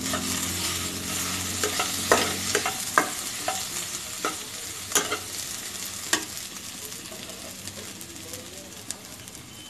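Fried onions and mashed boiled potato sizzling in hot oil in a non-stick kadhai as a spatula stirs them, its edge knocking and scraping against the pan several times between about two and six seconds in. The sizzle gradually dies down toward the end.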